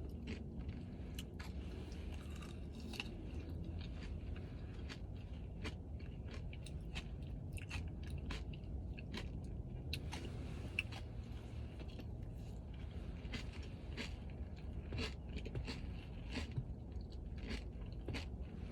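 A person chewing a mouthful of Dubai chocolate with crunchy kataifi pastry close to the microphone: many small, irregular crunches and mouth clicks over a steady low hum.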